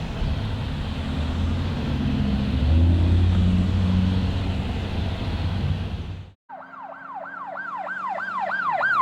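A truck engine running with a deep rumble, which cuts off suddenly about six seconds in. After a brief gap, an emergency-vehicle siren starts, wailing up and down in quick repeated sweeps, about three a second.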